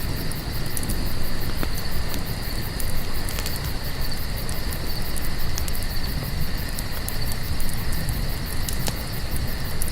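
Crickets trilling steadily over a campfire burning with a low rumble, with a few sharp crackles from the fire.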